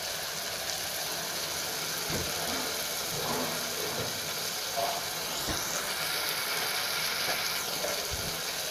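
Onions and tomatoes sizzling steadily as they fry in oil in an aluminium pressure cooker, with a few light scrapes and knocks of the metal spatula against the pan.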